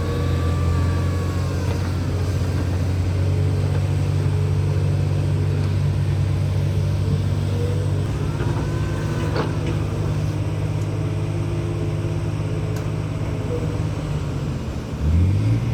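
Diesel engine of an LCMG MT88 mining dump truck running with a steady low drone, revving up near the end. Faint arching squeals come twice, and there is a single click midway.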